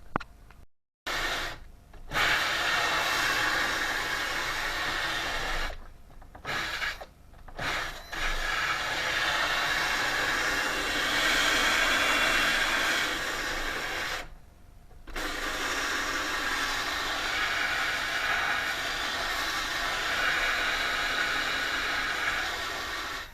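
Handheld power tool running in long stretches with a steady whirring hiss, stopping briefly a few times and starting up again.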